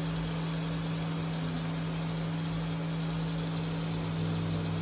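Onions frying in oil in a pan on an induction cooktop: a steady sizzle over the cooktop's constant low hum.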